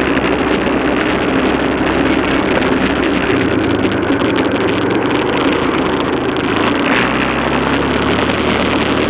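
Motorcycle engine running steadily while riding, its low note shifting about three and a half seconds in and again near seven seconds.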